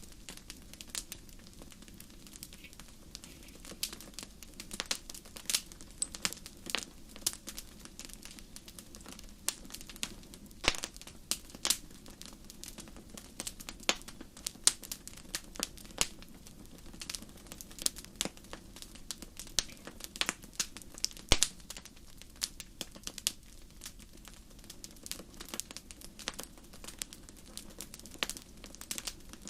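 Wood fire crackling in a fireplace: a steady run of irregular sharp pops and snaps over a low, even hiss.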